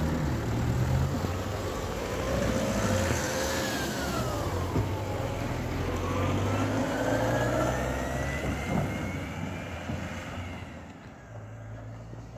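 A motor vehicle's engine running close by, its pitch falling and then climbing steadily as it slows and then accelerates away, fading out near the end.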